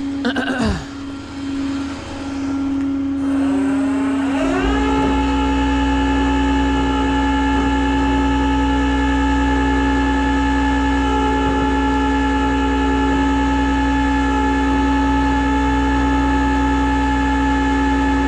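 Tow truck's engine and hydraulic winch running with a steady hum. About four seconds in, the engine speeds up with a rising pitch and holds a steady higher drone while the winch pulls the car onto the bed.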